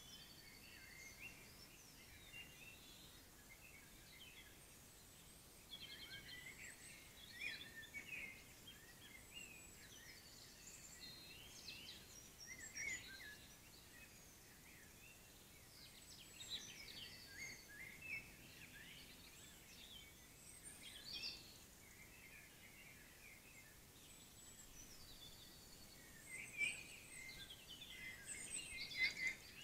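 Faint birdsong: scattered high chirps and short warbling phrases throughout, busiest and loudest near the end.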